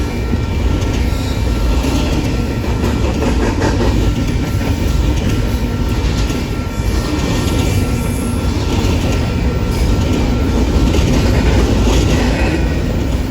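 Train rolling past close by: wheels rumbling and clacking on the rails, with a thin, steady squeal from the wheels.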